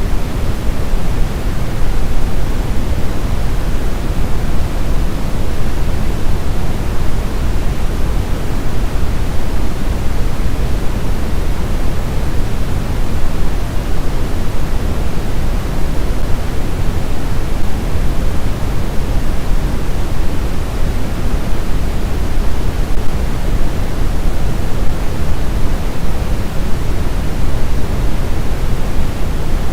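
Continuous white noise for sleep: a steady, unbroken hiss, heavier and deeper in the low end than in the highs, with no changes in level or character.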